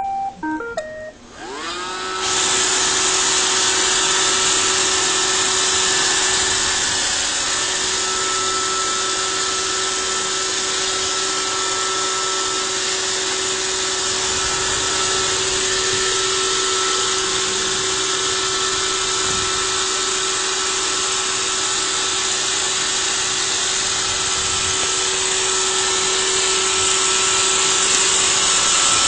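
Roomba robot vacuum playing a short sequence of beeping notes, then its motors spinning up about two seconds in and running with a steady whir and hiss.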